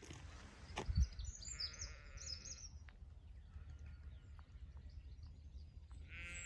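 A goat bleating: one bleat of about a second, starting about a second and a half in, and another right at the end. Small birds chirp faintly and a few footsteps thud near the start.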